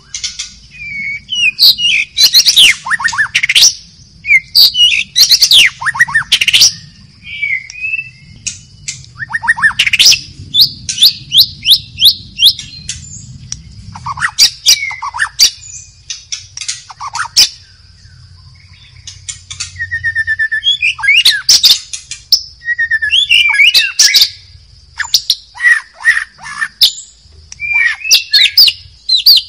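White-rumped shama singing loud, varied phrases of sweeping whistles, rapid trills and harsh notes, one burst after another with short gaps. A steady high hiss runs underneath.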